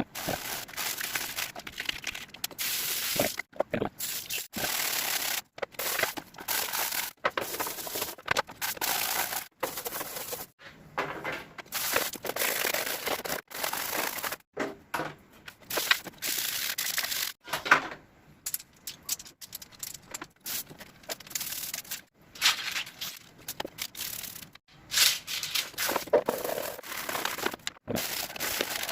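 Irregular scraping, rubbing and crackling of an evaporative air cooler's plastic parts being handled and fitted back together. The noise comes in short stretches with many abrupt breaks.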